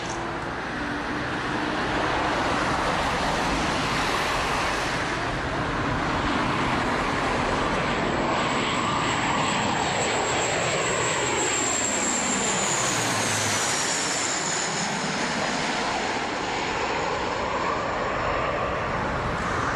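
Aircraft engines running loud as a plane flies low past on approach, with a high whine that drops in pitch and a sweeping whoosh as it goes by about two-thirds of the way through.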